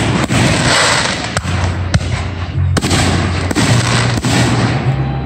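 Aerial fireworks bursting overhead: several sharp bangs a second or so apart, with a dense crackling fizz of sparks between them.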